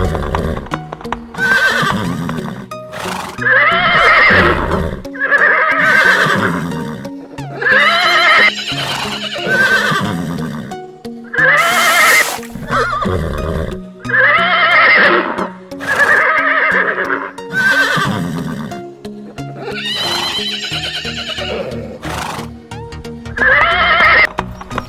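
Horses neighing and whinnying, a dozen or so separate calls of about a second each, one every one to two seconds, over steady background music.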